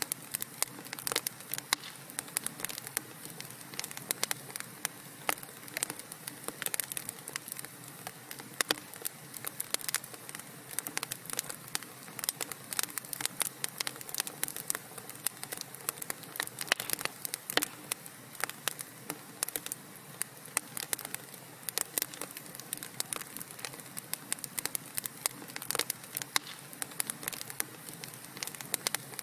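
Wood fire burning in a fireplace, crackling with irregular sharp pops and snaps, several a second, over a soft steady hiss.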